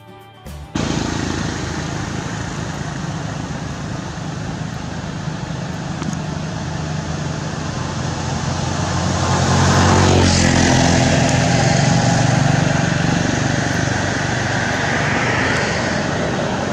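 Road traffic noise: motor vehicle engines running steadily, growing louder as a vehicle passes close about ten seconds in.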